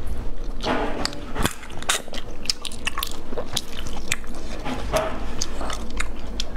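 Mouth sounds of eating snail meat in spicy sauce: wet chewing and biting, with many short sharp smacking clicks.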